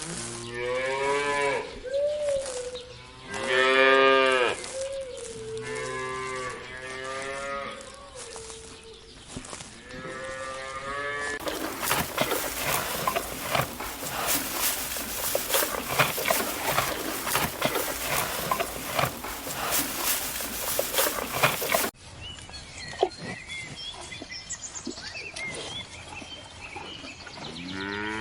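Cattle mooing: several long, drawn-out moos in the first ten seconds. From about eleven to twenty-two seconds a loud, rough noise full of crackles takes over, then a quieter stretch with faint chirps, and one more moo at the very end.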